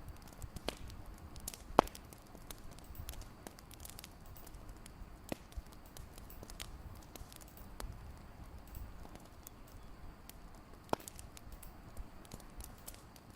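Fireplace fire crackling: irregular sharp pops and snaps over a faint steady hiss, with the loudest pops about two seconds in and again near eleven seconds.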